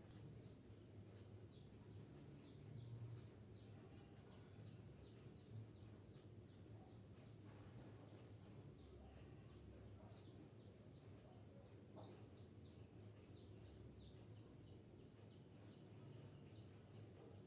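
Zebra finches, a parent bird with its young, giving many short high chirps, several a second and overlapping, faint over a low steady hum.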